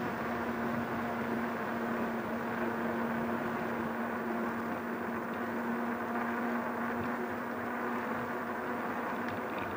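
Steady mechanical hum of street and riding noise, with a constant low tone and a sharp click right at the end, as picked up by an action camera mounted on an electric bike's handlebars.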